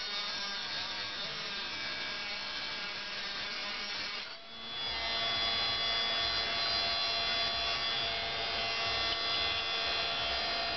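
Cordless screwdriver motor spinning a worn diamond cutting disc as it cuts hardened steel: a continuous grinding with a steady high tone. It dips briefly about four seconds in, then carries on louder and steadier.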